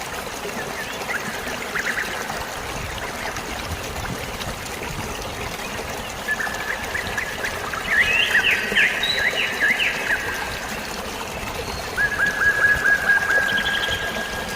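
Steady sound of flowing water with birds chirping over it: a few chirps, then a busy run of rapid chirps from about six to ten seconds in, and a fast trill of repeated notes near the end.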